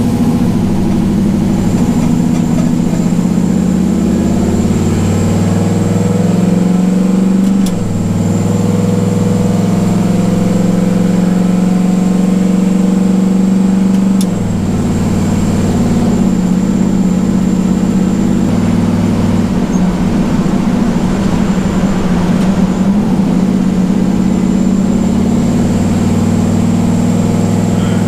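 Turbocharged LS V8 pickup truck driving under light throttle, its engine note steady with two abrupt changes about 8 and 14 seconds in.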